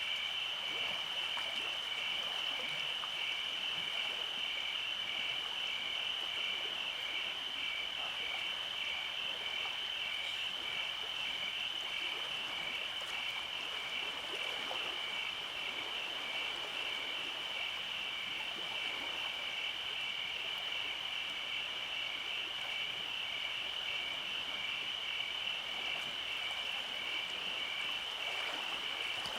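Steady summer-night chorus of calling animals: a continuous high trill with a second, regularly pulsing note just below it, over a soft hiss.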